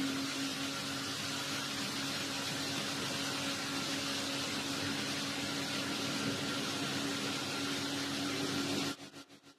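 Steady background hiss with a faint low hum. It drops out to silence for about half a second near the end.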